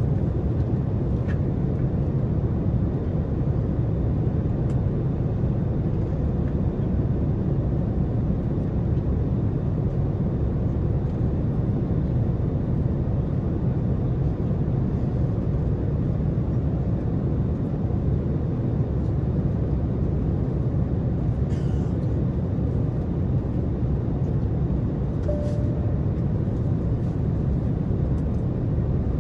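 Steady low roar inside the cabin of an Airbus A330-900neo in flight: airflow and Rolls-Royce Trent 7000 engine noise, even and unbroken.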